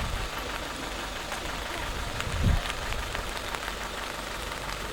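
Rain falling steadily, with many small drops ticking against nearby surfaces, and a single low thump about halfway through.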